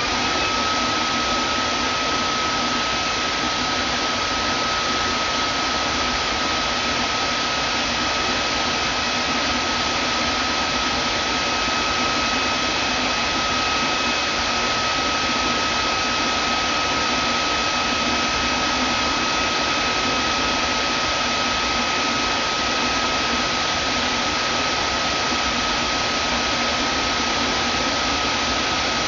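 Vacuum cleaner motor running steadily: an even rushing hiss with a steady high whine over it.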